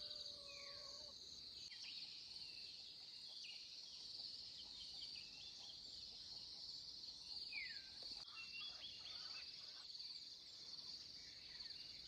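Faint, steady, high-pitched insect chirring, with scattered short bird calls over it, several of them falling in pitch.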